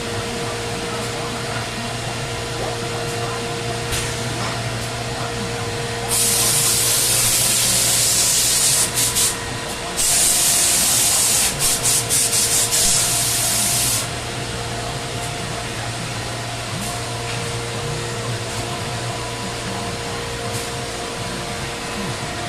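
Biesse Rover CNC router running with a steady hum. About six seconds in, a loud high hiss starts; it breaks off briefly twice and stops about fourteen seconds in.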